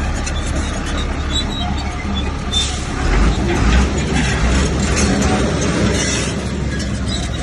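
Komatsu crawler bulldozer working: a steady low diesel rumble with short metallic squeaks and clatter from the steel tracks, getting a little louder about three seconds in.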